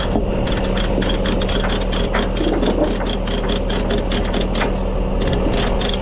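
Truck engine idling steadily under rapid, irregular metallic clicking from a ratchet chain binder being cranked loose.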